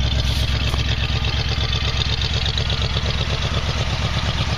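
1979 Jeep CJ-5's AMC 304 V8 idling through aftermarket dual exhaust: a steady, even low exhaust note, the engine warming up after a cold start.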